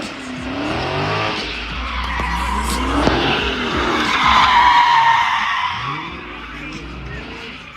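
Car doing a burnout: the engine revving up and down over tyres squealing, the squeal loudest about four to five seconds in.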